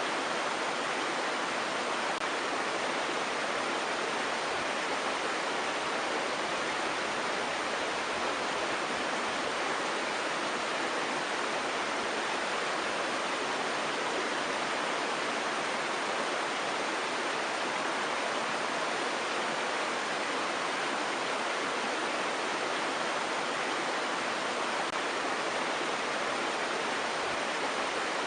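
Water flowing over rocks: a steady, even rush with no breaks or surges.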